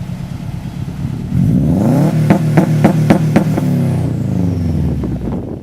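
Subaru WRX turbocharged flat-four running through an aftermarket exhaust, blipped from idle: the revs climb about a second and a half in, hang with a string of sharp cracks about three a second, then fall back toward idle near the end.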